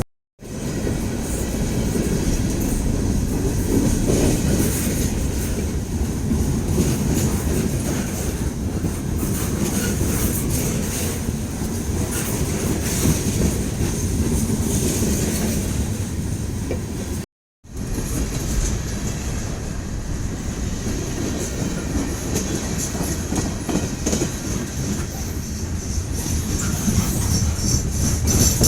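Freight train cars rolling steadily past over a grade crossing, with a continuous rumble of wheels on rail and some high-pitched wheel squeal. The sound breaks off briefly about 17 seconds in.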